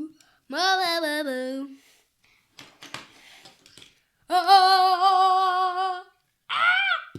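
A child's voice singing wordless notes: a short dipping note, then after a pause a long steady held note, then a brief swooping note near the end.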